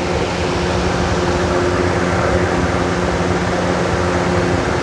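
Lasko B20200 box fan running with a steady motor hum and rush of air. Part of its blade is broken off, so it runs out of balance and shakes.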